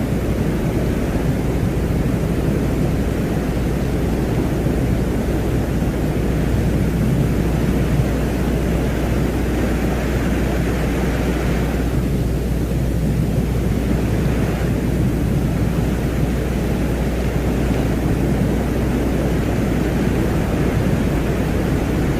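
Space ambient drone presented as the sound of Venus: a steady, deep rumbling noise over a constant low hum, with a fainter hiss above. Around the middle, the upper hiss briefly swells and thins.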